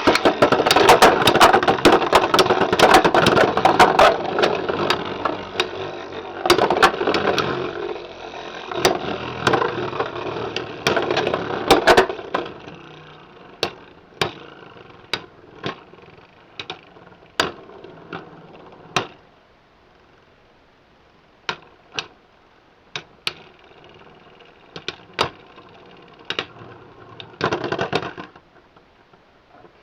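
Beyblade X spinning tops launched into a plastic stadium, whirring and clashing with a dense rattle of sharp knocks for about twelve seconds, then only scattered single knocks as they slow down.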